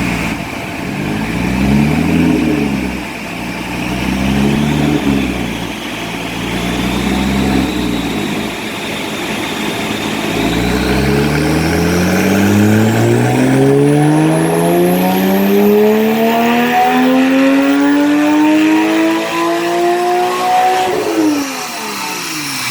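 Porsche 987 Cayman S flat-six with a decat exhaust on a chassis dyno: three short revs up and down, then a long full-throttle pull climbing steadily in pitch to high revs for about ten seconds, before the throttle is lifted near the end and the revs drop quickly.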